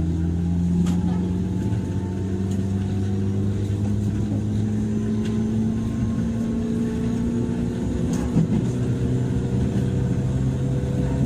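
JR 103 series electric train running, its traction motors humming steadily and rising slowly in pitch as the train gathers speed, over the rumble of wheels on the rails.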